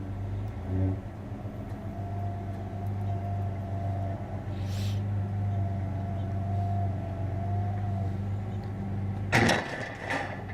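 Old Ford farm truck's engine running steadily at idle. A brief loud clatter about nine seconds in.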